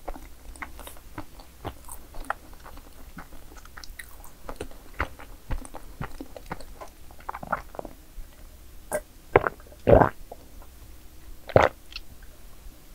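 Close-miked chewing and biting of madeleine cakes: soft, wet mouth sounds with many small, crisp crunches. A few louder mouth sounds come near the end.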